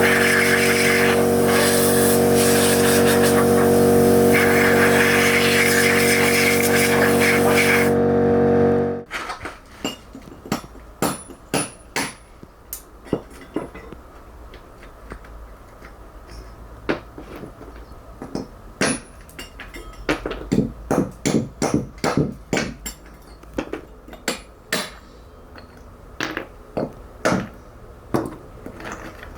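A power tool running loudly with a steady hum and hiss, stopping abruptly about nine seconds in. Then a long series of sharp, irregular knocks and taps of a hand tool working on stone.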